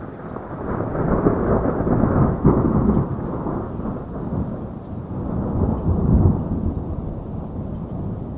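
Thunderstorm: a long roll of thunder that builds over the first second, peaks twice and slowly fades, over steady rain.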